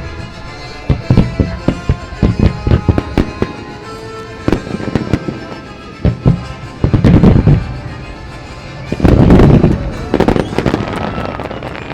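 Aerial fireworks bursting in quick succession with sharp bangs, with music underneath. About seven and nine seconds in, dense salvos build into long, loud rumbling crackles.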